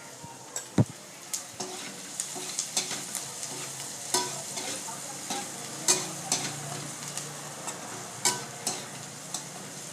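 Chopped onion, capsicum and green chilli sizzling in oil in a kadai over a high gas flame, with a spatula stirring and knocking against the pan at irregular intervals.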